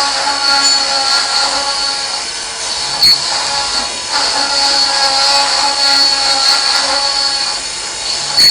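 CNC machining centre cutting metal: a steady high-pitched whine from the spindle and cutter that swells and eases in cycles of a few seconds, with a sharp click about three seconds in and again near the end.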